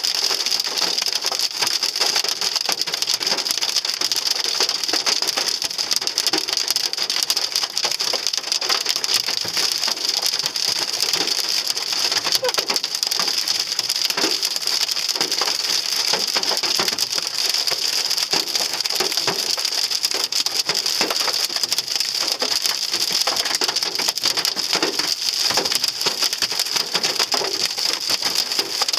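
Hailstones hitting a Hyundai Sonata's roof and glass in a dense, unbroken clatter, heard from inside the car. The hail is heavy enough to leave the car badly dented.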